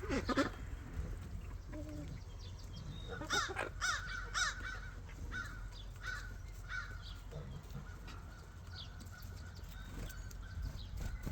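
Birds calling: a burst of harsh calls at the start and a quick run of repeated calls around three to four seconds in, then scattered fainter calls, over a steady low rumble.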